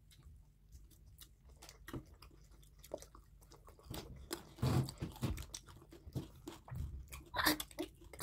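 Close chewing and biting of chicken and noodles: irregular short clicks, crunches and wet mouth sounds, with a couple of louder bursts around five seconds in and again near the end.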